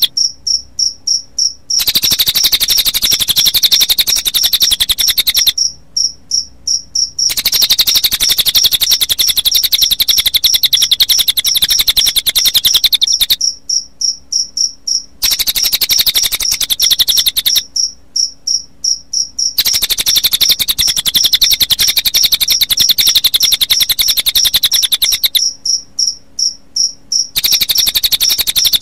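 Recorded cililin bird song mixed with cricket chirping. The cricket's high chirps repeat steadily, about four a second, throughout. The bird's rapid, high twittering comes in long bouts of several seconds, broken by pauses of one and a half to two seconds.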